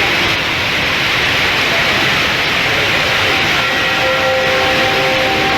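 Steady rushing of a tall indoor waterfall, the HSBC Rain Vortex, pouring down into its basin. About three and a half seconds in, held musical notes from the show's soundtrack begin over the water.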